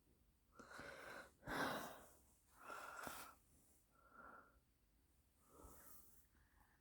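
Faint breathing, about five short breaths with a thin whistle in several of them, the wheezy breathing of someone with asthma and an upper respiratory infection.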